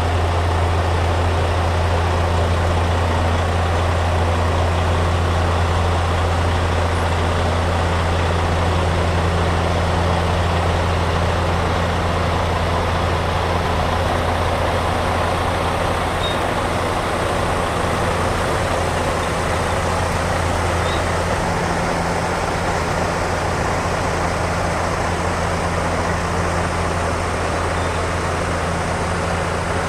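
Heavy truck engine running steadily: a constant low drone under a broad rushing noise, with no change in speed.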